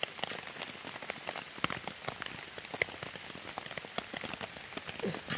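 Steady rain falling, with an irregular patter of individual drops striking close by.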